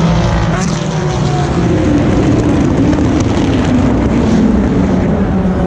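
Race cars' engines running loud and without a break as they brake and accelerate through a chicane. Several engine notes overlap, their pitch sliding down and back up.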